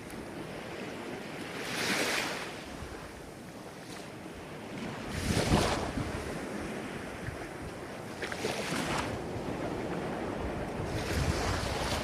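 Ocean waves breaking on the shore, one swell of surf about every three seconds over a steady wash, with low wind rumble on the microphone.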